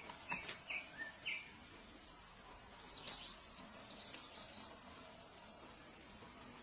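Small birds chirping: a few short calls with a couple of sharp clicks in the first second and a half, then two quick runs of higher twittering about three and four seconds in.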